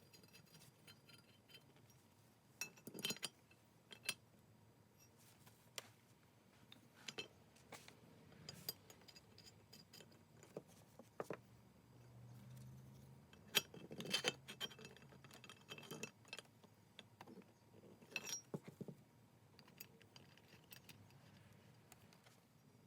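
Metal parts of a Stanley Bailey No. 5 jack plane clicking and clinking against each other as the plane is put back together. Irregular light knocks come throughout, with the loudest cluster a little past the middle and another near the end.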